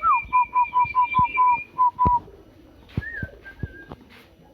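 Zebra dove (perkutut) singing: a falling first note followed by a quick run of even, short cooing notes, about five a second, for some two seconds. A second bird calls higher above it, a short call follows about three seconds in, and a few sharp knocks come between.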